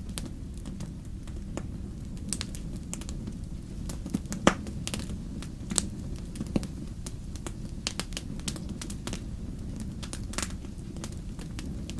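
Wood fire crackling in a fireplace: a low steady rumble of flames under irregular sharp snaps and pops, the loudest snap about four and a half seconds in.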